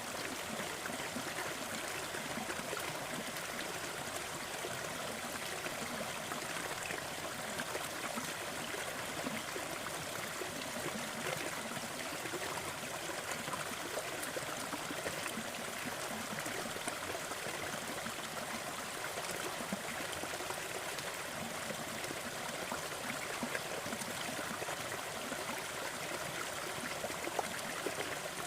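Steady, even rushing noise, hiss-like rather than deep, with a few faint scattered crackles of a wood fire in it.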